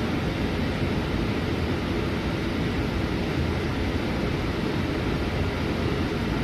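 Steady engine drone and road noise heard inside the cabin of a Scania C250EB city bus on the move.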